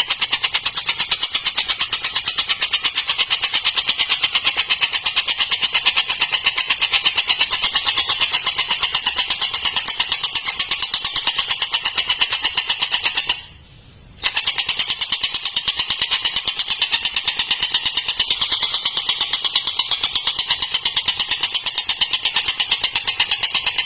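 Tengkek buto kingfisher calling in a long, fast, harsh rattling chatter of evenly spaced notes, broken once by a brief pause a little past halfway.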